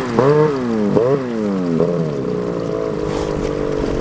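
Snowmobile engine revving up and dropping back three times in quick succession, then running at a steadier pitch in the second half.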